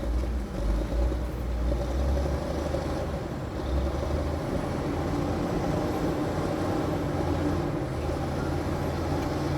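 Bulldozer's diesel engine running with a steady deep rumble, a little heavier in the first few seconds.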